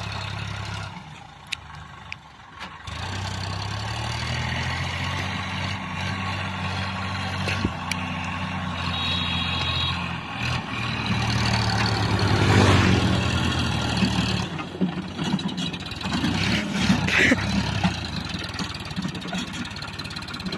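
A tractor's diesel engine running steadily while hauling a loaded trolley. It drops quieter briefly about a second in, then swells louder around twelve seconds in before settling back.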